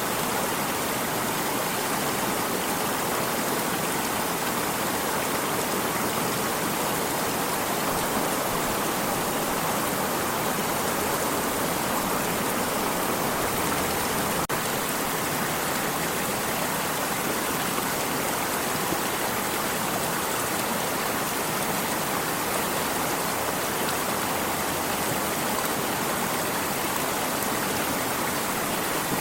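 Flowing water stream: a steady, even rush of running water with no change in level.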